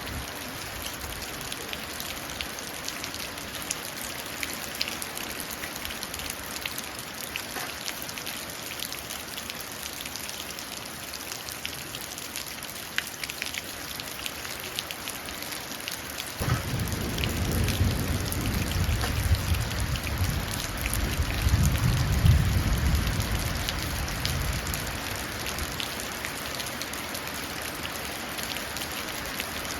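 Steady rain falling into a puddle, with a patter of separate drops. About halfway through, a low rumble of thunder comes in suddenly, swells for several seconds, then dies away, leaving the rain.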